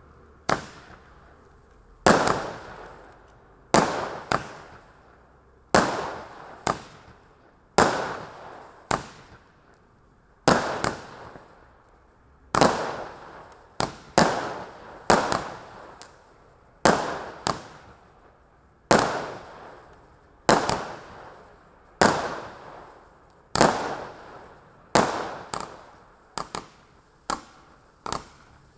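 A 92-shot mixed-tube firework cake firing: sharp bangs about every one to two seconds, each fading out in a short hiss, coming faster and sometimes in quick pairs near the end.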